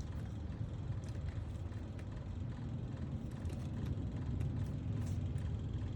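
Steady low background rumble with a few faint, light clicks scattered through it.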